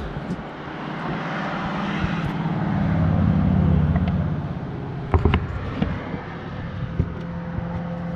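A passing motor vehicle: a rushing engine-and-road noise that grows louder to about three or four seconds in and then fades, over a steady low hum. A few sharp clicks and knocks come about five seconds in and near the end.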